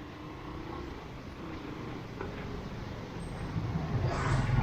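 A motor vehicle approaching along the street, its engine getting steadily louder and loudest near the end, over a background of street noise.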